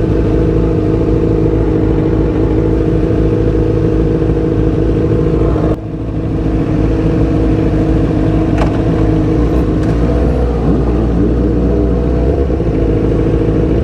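Motorcycle engine running while riding, with road and wind noise. The engine drops off briefly about six seconds in, as with a throttle-off or gear change. Its pitch wavers in the last few seconds.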